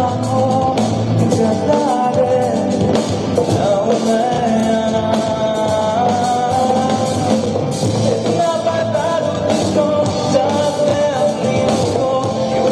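A Hindi song with a singer holding long, wavering notes over band accompaniment with drums.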